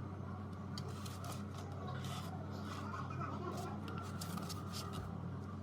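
Steady low electrical hum with scattered light clicks and taps, and some faint indistinct chatter.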